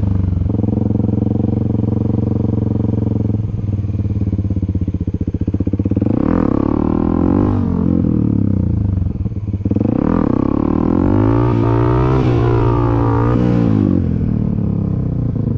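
Dirt bike engine running, with the revs climbing and falling in two swells: one about six seconds in, and a longer one from about ten to fourteen seconds, as the throttle is worked for wheelies.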